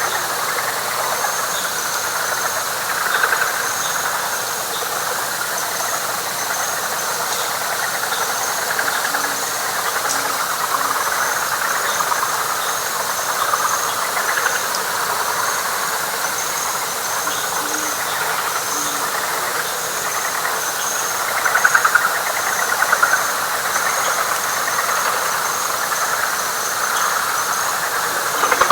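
A dense night chorus of frogs, a steady rough pulsing trill that swells louder a few times, with a faint rapid repeating chirp high above it and an occasional short low note.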